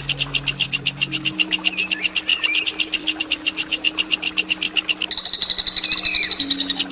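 Songbird singing a long, fast, harsh rolling phrase of rapidly repeated high notes, about eight a second, which changes about five seconds in to a higher, buzzier trill.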